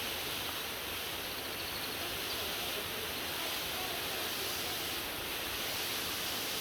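Waterfall, water pouring down in a steady, even rush.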